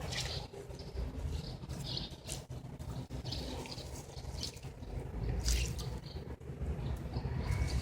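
Birds chirping in short calls repeated every second or so, over a steady low rumble.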